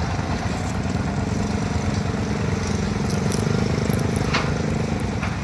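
An engine running steadily, a low hum that holds its pitch, with a short high sound about four seconds in.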